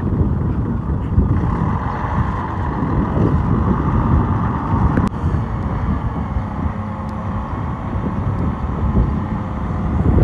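Heavy diesel earthmoving machinery running, a steady low rumble with a higher whine over the first few seconds and one sharp click about five seconds in.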